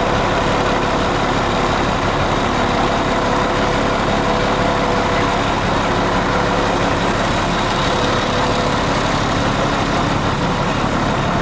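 Heavy engine of the boat-lifting machinery running steadily at an unchanging pitch.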